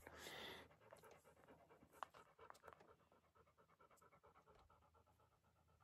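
Near silence, with a brief faint hiss at the start and a light click about two seconds in.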